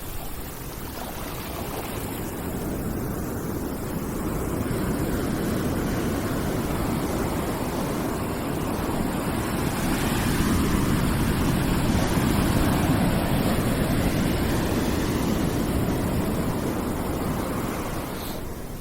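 A steady rushing noise, deep-toned with a thinner hiss above. It slowly swells louder toward the middle and eases off near the end, like surf or wind surging.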